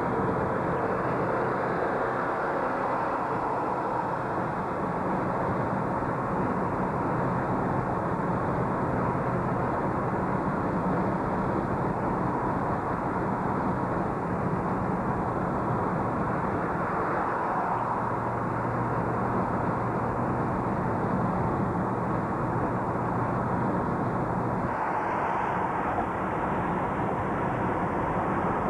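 Steady road and engine noise heard from inside a moving car, with a low engine hum under it; the tone of the noise changes about three-quarters of the way through.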